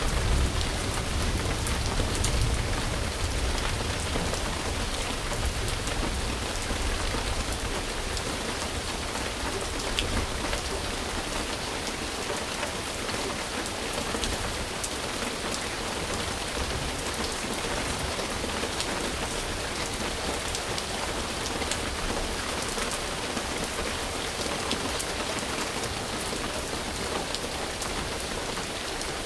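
Steady rain falling on surfaces, a dense even patter of drops. A low rumble underneath fades away over the first ten seconds or so.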